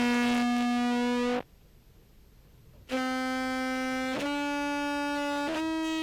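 Contrabass clarinet tones from a whole-range sample, played through an effects pedal chain as a series of sustained notes. One note breaks off about a second and a half in. After a pause of about a second and a half, three more notes follow, each held just over a second and stepping slightly higher in pitch.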